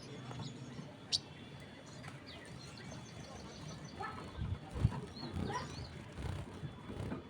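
Sogon songbird calling: one sharp high chirp about a second in, then scattered short, thin calls and whistles.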